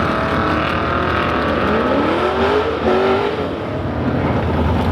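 Drag-racing car engines at full throttle, accelerating hard, with the engine pitch climbing steeply a couple of times about two to three seconds in.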